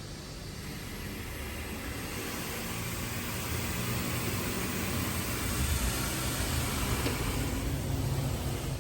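Touchless car wash spraying the car with high-pressure water jets: a steady hiss that grows gradually louder, over a low rumble.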